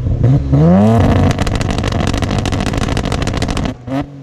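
A modified car engine revs up, then is held against a two-step launch limiter for a couple of seconds in a rapid string of pops and crackles, before dropping off sharply near the end.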